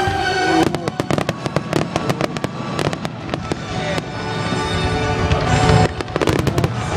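Fireworks finale: rapid crackling pops from many shells bursting at once, thickest in the first half and again in a short flurry near the end, with show music playing underneath.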